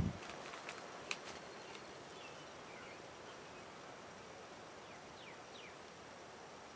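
Faint outdoor ambience with a few short bird chirps that fall in pitch, and scattered light clicks in the first second or so.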